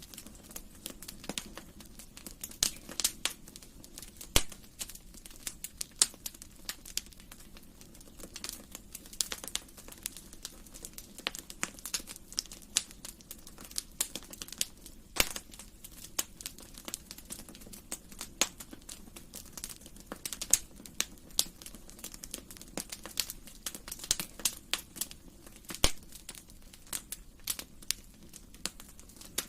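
Wood fire burning in a fireplace, crackling with irregular sharp pops and snaps, a few louder ones standing out, over a soft steady hiss.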